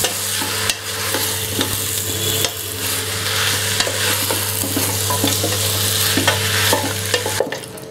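Chicken pieces, onion, potato and carrot sizzling in hot coconut oil in a pressure cooker pot, stirred with a wooden spatula that scrapes and knocks against the pot. A steady low hum runs underneath and cuts out near the end.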